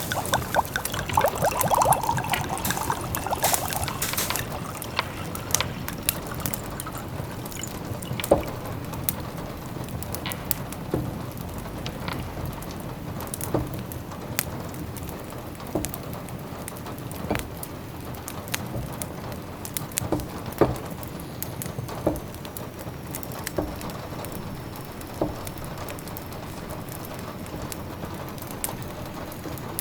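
Steady rain pattering with a wood fire crackling over it in scattered sharp pops, busier for the first few seconds.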